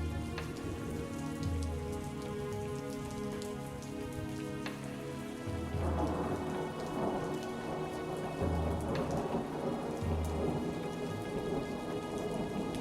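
Steady rain falling, with scattered drop ticks, and deep rumbles of thunder that grow heavier about halfway through as the rain thickens. Soft music with long held notes plays underneath.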